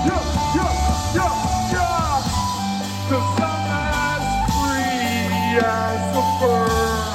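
Live rock music at concert volume: a lead guitar line of gliding, bending notes over sustained bass and drums.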